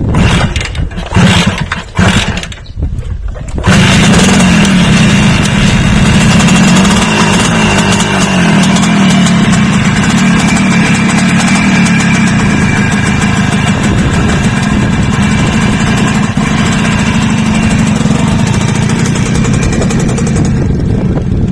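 A motor engine starts about four seconds in, after a few uneven bursts of noise, then runs steadily and loudly until it drops away near the end.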